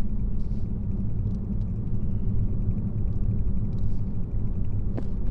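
Steady low rumble of a car's engine and road noise heard from inside the cabin while driving, with one short click about five seconds in.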